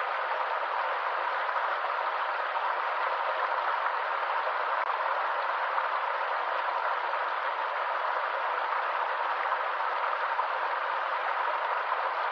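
Stream water running steadily over rocks, an even rushing with little low rumble.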